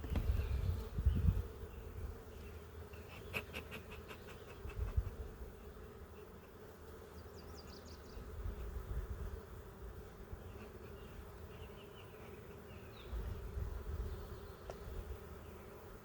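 Honeybees buzzing in a steady hum around an open hive, stirred up by the inspection. Low rumbles come and go underneath, and a quick run of clicks sounds about three seconds in.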